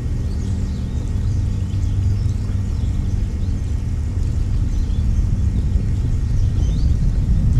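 Steady low rumble, with faint, scattered high chirps of small birds over it.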